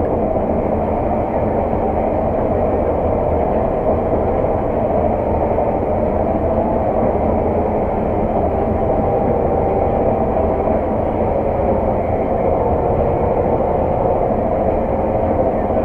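Steady drone of a working farm harvesting machine's engine and running gear heard from inside its cab, with a constant hum and no change in speed.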